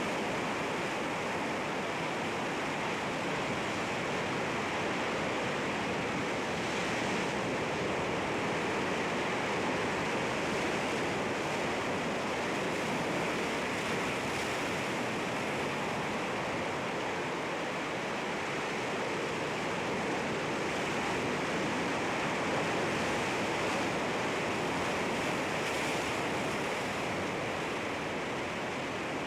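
Sea waves washing against rocks, a steady, even rush of surf with no distinct single crash standing out.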